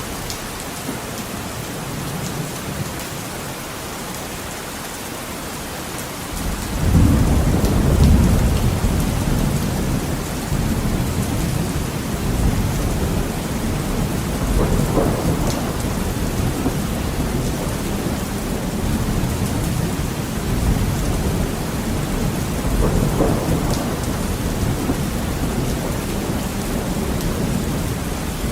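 Heavy rain pattering steadily on a window, with a deep roll of thunder that breaks suddenly about six seconds in and keeps rumbling, swelling again twice.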